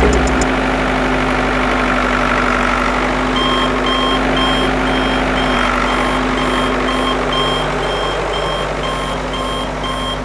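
A vehicle engine running steadily, joined a few seconds in by a reversing alarm beeping about twice a second.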